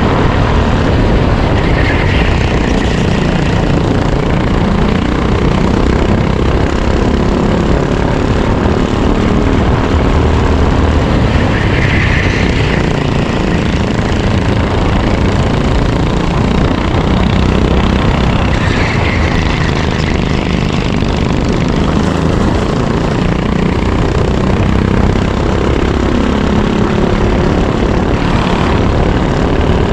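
Racing kart engine heard onboard, running hard with its pitch rising and falling again and again as the driver accelerates and lifts.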